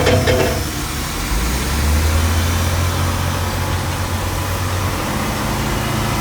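A heavy engine running steadily with a low hum that swells about a second in and eases again near five seconds. A short pitched sound is heard right at the start.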